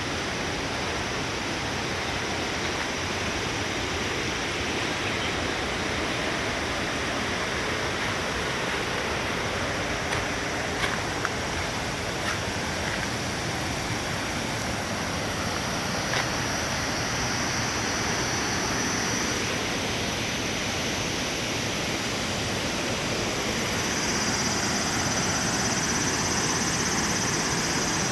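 Steady rush of a large waterfall in heavy flow, its water volume swollen after a typhoon.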